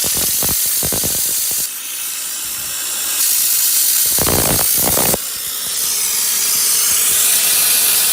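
Steam car washer's steam gun blasting a jet of dry steam with a loud steady hiss. The level dips twice, about two seconds in and again about five seconds in, and there is some crackling in the first second and around four to five seconds.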